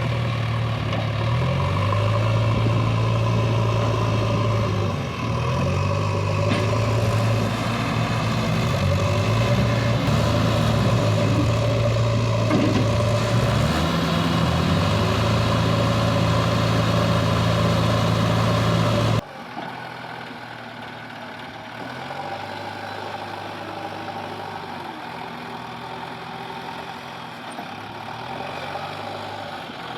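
JCB 3DX backhoe loader's diesel engine running, its pitch stepping up and down as the machine is worked. About two-thirds of the way through the sound drops suddenly to a quieter, steadier engine.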